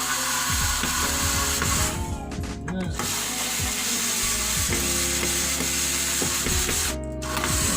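Ratcheting mechanical clicks of a screwdriver driving screws as the TV's back cover is fastened.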